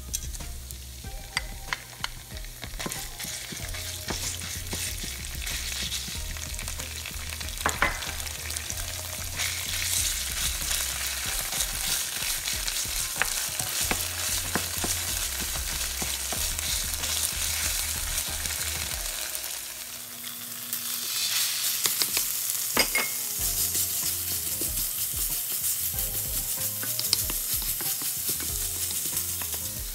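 Minced garlic and red curry paste sizzling in hot oil in a nonstick frying pan, with a wooden spoon stirring and scraping in sharp clicks and scrapes. About twenty seconds in the sizzle briefly drops, then comes back louder as sliced raw pork fries in the pan.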